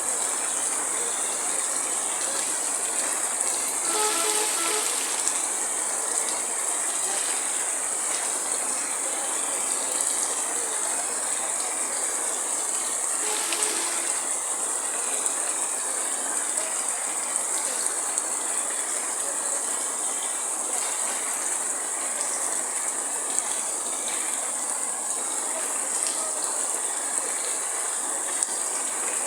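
Heavy rain falling steadily, a dense even hiss. Two brief, faint pitched blips come about four and thirteen seconds in.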